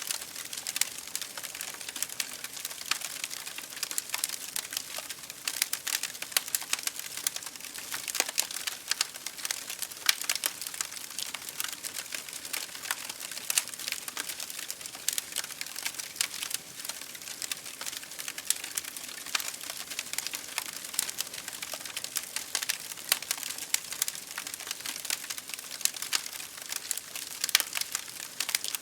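Wood fire crackling in a fireplace, with dense irregular pops and snaps, over a steady hiss of rain hitting a window pane.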